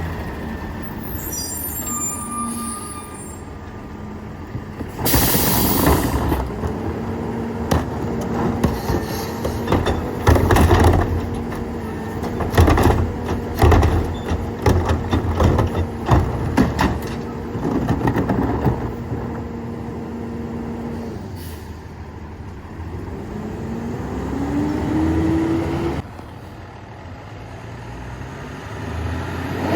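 Peterbilt 348 Loadmaster rear-loader garbage truck packing trash. A loud burst of air hiss comes about five seconds in, then a steady hydraulic whine with many knocks and bangs runs for about fourteen seconds, and the engine revs up twice in the last few seconds.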